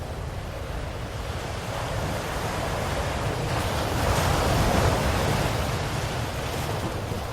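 Ocean waves breaking on a shore: a steady wash of surf that swells to one wave cresting about four to five seconds in, then ebbs.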